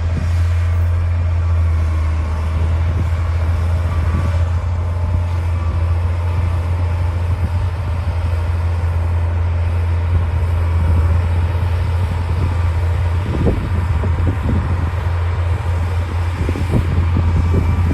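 D60 bulldozer's diesel engine running with a steady low drone, with scattered clanks and knocks in the second half, from about 13 seconds on.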